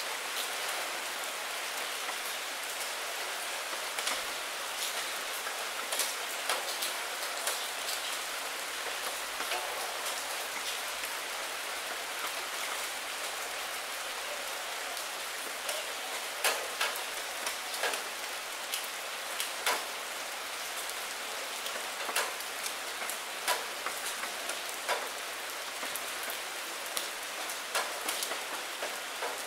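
Steady rain on a window pane: an even, close hiss with scattered sharper taps of single drops striking the glass, the taps coming more often in the second half.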